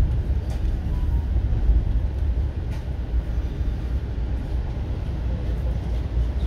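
Amtrak Maple Leaf passenger train running at a steady pace, heard from on board: a continuous deep running noise with no distinct rhythm.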